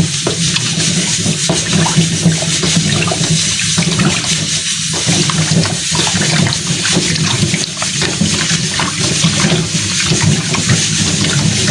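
Water running and splashing steadily, with a low steady hum underneath.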